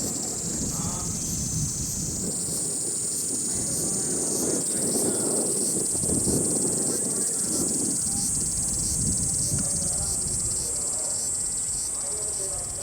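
Steady high-pitched drone of insects calling, with strong gusty wind rumbling low underneath, swelling midway through.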